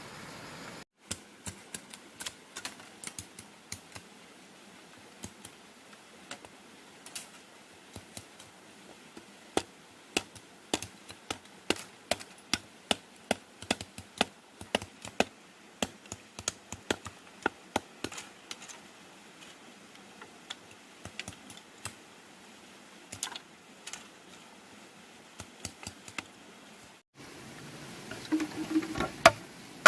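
Rapid, irregular light taps and clicks, at times several a second. The sound drops out briefly about a second in and again near the end.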